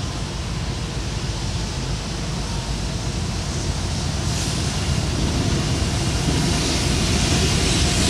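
Approaching diesel-hauled freight train: a low rumble with a hiss that comes up about four seconds in, growing steadily louder as it nears.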